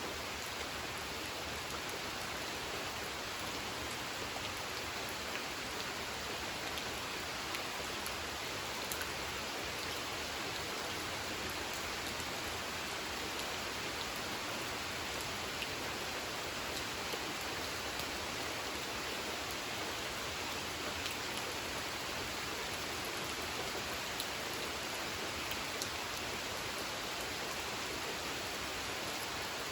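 Steady gentle rain falling on a pond, an even hiss with many small drop ticks scattered through it.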